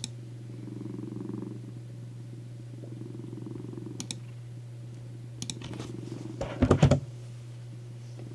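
Domestic cat purring on a lap, the purr coming in soft phrases over a steady low hum. A few sharp clicks are heard, and a short cluster of louder knocks comes about two-thirds of the way in.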